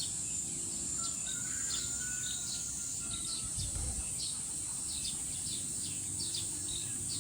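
Outdoor insect buzz, high and steady, with short bird chirps repeating throughout.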